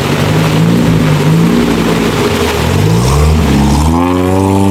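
Off-road 4x4 engine running under load, its pitch climbing as it revs up a little over halfway through, then holding at the higher revs.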